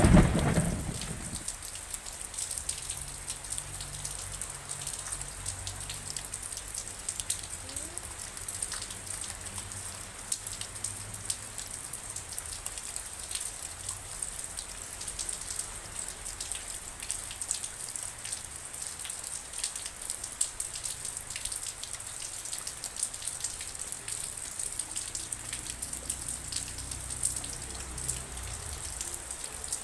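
Rain falling steadily, with many sharp individual drop hits. A thunderclap's rumble dies away in the first second.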